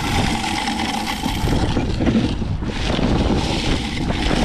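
Strong wind buffeting the microphone with a steady rumble, over a vehicle running with a constant hum.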